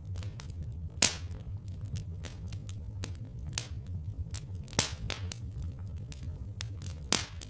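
Wood fire crackling: irregular sharp pops and snaps, the loudest about a second in, near five seconds and near the end, over a steady low rumble.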